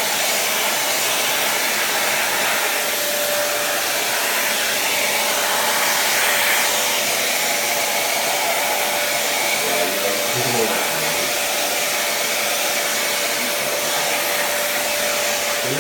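Vacuum cleaner running steadily: a constant rushing hiss with one steady whine.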